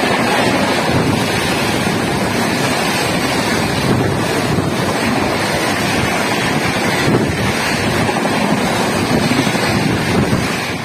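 Steady rush of wind buffeting the microphone over the running noise of a moving express train's ICF coach.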